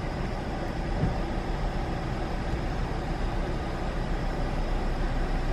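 Steady low rumble with an even hiss: the background noise of the idling car, heard inside the cabin.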